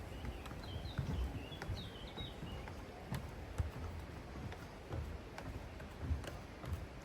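Footsteps and knocks on stony ground with wind rumbling on the microphone, and a bird chirping a few quick notes in the first couple of seconds.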